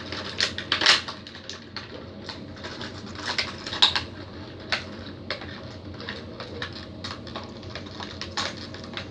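Hands working a plastic toy figure free of its packaging: irregular plastic clicks and taps, a few of them sharper and louder, about a second in and near four seconds.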